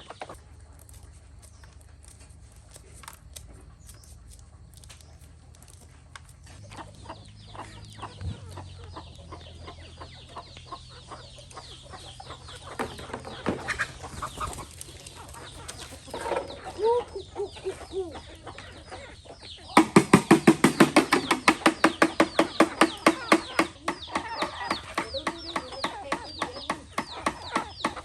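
Flock of free-range chickens clucking. It starts sparse and grows into a loud, busy chorus of rapid repeated calls about two-thirds of the way through, with a low steady hum for a stretch in the middle.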